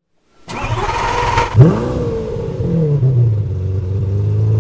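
A car engine is started. It cranks for about a second, then catches with a quick rev, the loudest moment, and settles into a steady idle.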